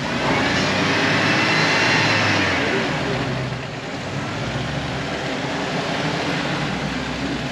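Off-road vehicle engine running, its pitch rising and falling over the first few seconds as it is worked over the obstacle, then settling back nearer idle.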